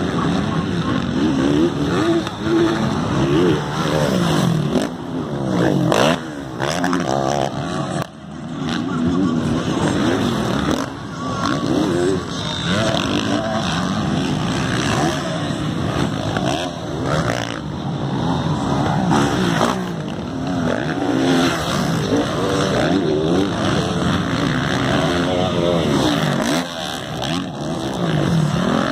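Several motocross bikes racing, their engines revving up and falling away over and over as riders accelerate and back off around the track.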